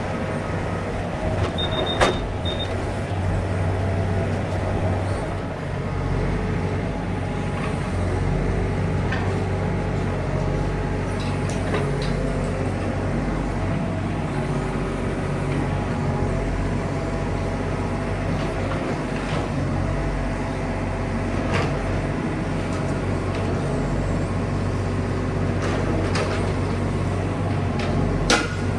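A heavy machine's engine running steadily with a low hum, with a few sharp knocks and clinks.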